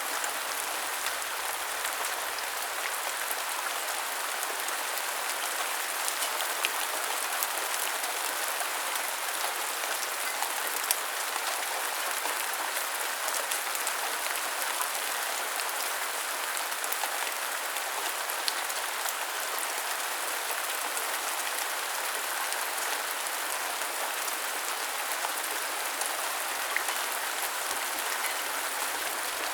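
Steady rain falling and pattering on hard surfaces, an even hiss with scattered sharper drop ticks.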